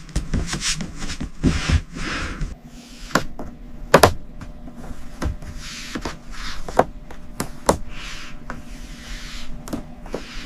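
Hand-tool rubbing or scraping strokes, like sanding, repeated in short passes, with sharp taps and knocks in between; the loudest knock comes about four seconds in.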